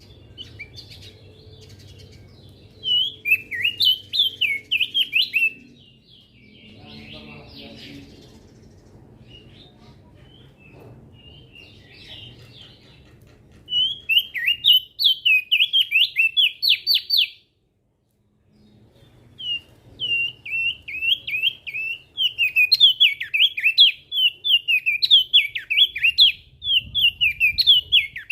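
Crested white-eye (opior jambul) singing fast, chattering song phrases of quick rising and falling notes. The song comes in a short burst about three seconds in and another around the middle, then runs almost without a break through the last third. A faint low rumble sits underneath.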